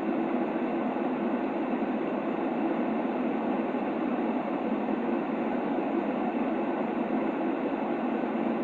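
Steady, unchanging white noise for a baby's sleep, dull and muffled rather than hissy, with no breaks or changes.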